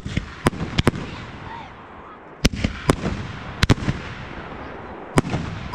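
Fireworks display, aerial shells launching and bursting: about ten sharp bangs at irregular intervals, some in close pairs, over a continuous crackling haze.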